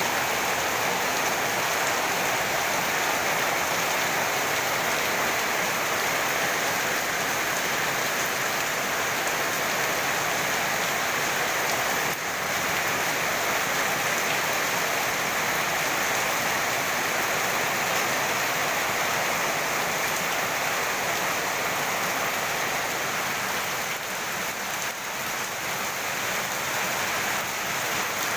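Heavy rain pouring steadily onto surfaces, a dense even hiss of rainfall.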